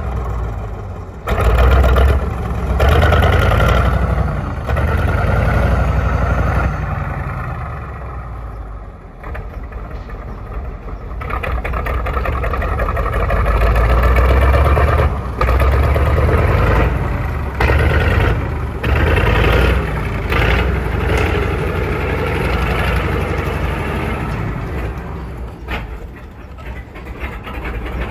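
Soviet KV-1 heavy tank's V12 diesel engine running loud and low while the tank is driven, the revs swelling and easing off several times with brief drops in between.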